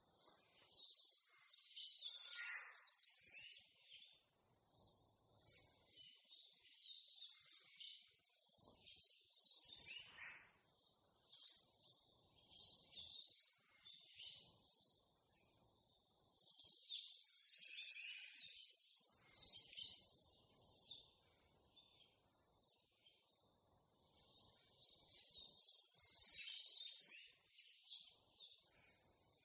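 Several songbirds singing at once, their chirps and trills overlapping, with louder spells every several seconds.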